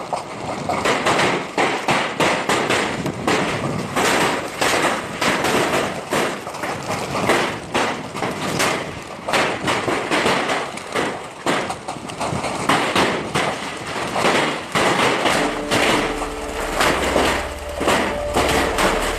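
Hailstones pelting hard surfaces in a dense, continuous clatter of impacts. About three-quarters of the way through, a low steady hum and a few held tones join in under the clatter.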